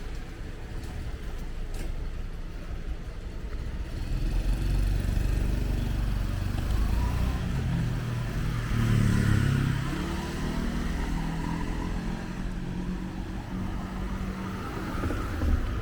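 Street traffic passing: motor vehicle engines, with one engine growing louder and rising in pitch as it speeds up past about halfway through.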